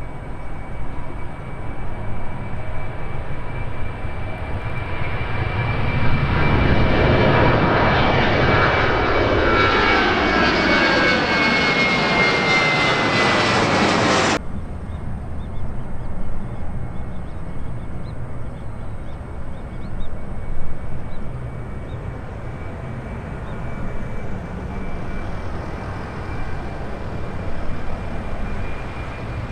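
Jet aircraft passing close by: engine noise builds to a loud pass with a high fan whine that drops slightly in pitch as it goes by. About halfway through it cuts off suddenly, giving way to quieter, more distant jet engine noise.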